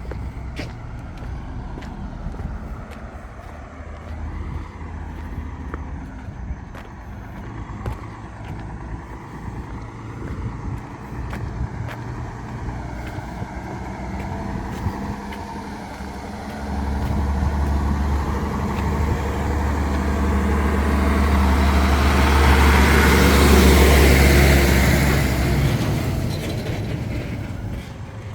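A heavy road vehicle drives past close by: its engine's low drone grows louder about two thirds of the way in, peaks near the end with a rush of noise, then fades. Before it, a lower engine hum and street noise.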